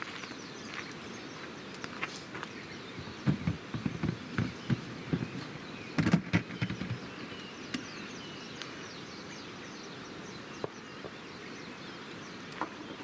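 Wood campfire crackling with scattered sharp pops over a steady outdoor hiss, with a run of louder low knocks and thuds between about three and seven seconds in.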